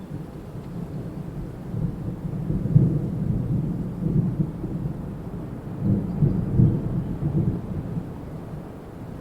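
Wind blowing in gusts, a low rumble that swells and fades, strongest about three seconds in and again around six seconds.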